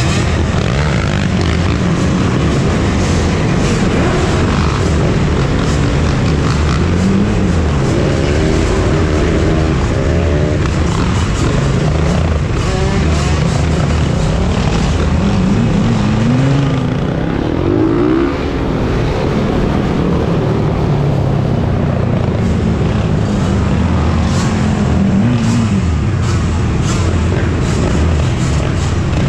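Dirt bike and quad (ATV) engines running together, with several revs rising and falling about a third of the way in, around the middle, and again later on.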